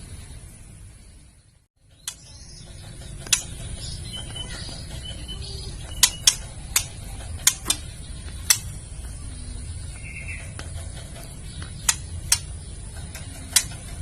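Female white-rumped shama giving its kretekan, a crackling call of sharp, irregular clicks, some single and some in quick pairs, that stirs male shamas to sing. It plays over a steady hiss and low hum, which drop out briefly near the start.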